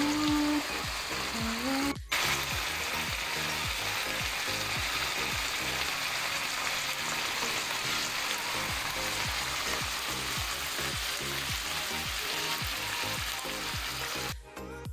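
Chicken livers and boiled eggs in adobo sauce sizzling steadily in a frying pan. The sizzle cuts out for a moment about two seconds in and stops just before the end.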